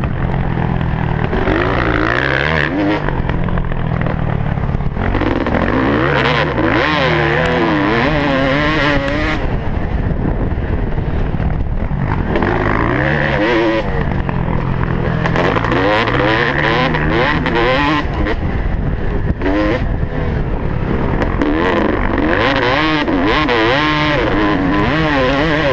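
Motocross dirt bike engine running hard, its revs climbing and dropping again and again as the rider works the throttle and gears around the track.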